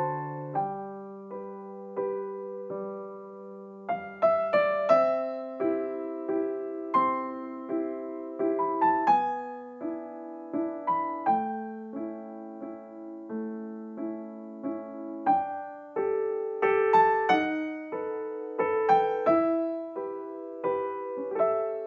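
Gentle solo piano background music, notes struck and left to ring in a slow, even melody.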